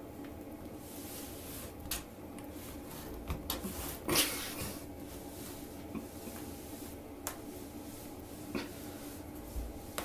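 Scattered light knocks and clatters over a steady room hum, the loudest about four seconds in.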